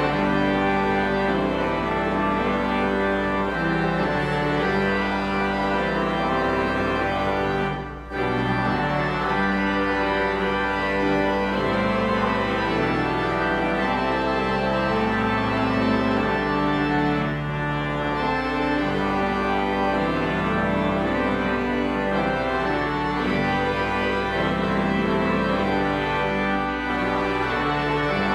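Church organ playing sustained chords, with a brief break about eight seconds in.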